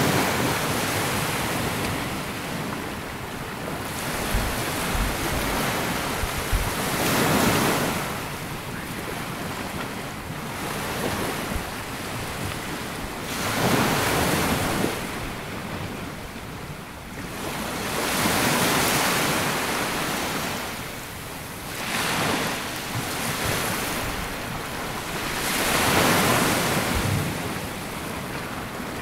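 Sea waves breaking and washing up a sandy beach, a rushing swell every four to seven seconds that ebbs between.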